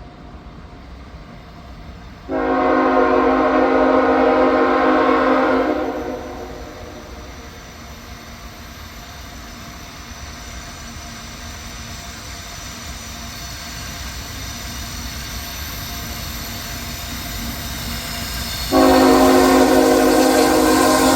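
Nathan K5HL five-chime air horn on a GE ET44AH locomotive, sounding for a grade crossing: one long blast of nearly four seconds about two seconds in, and another starting near the end. Between the blasts the approaching train's rumble grows steadily louder.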